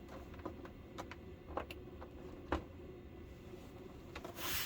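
Quiet room tone with a few faint, short clicks scattered through it, the loudest a little past halfway, and a brief soft rustle near the end.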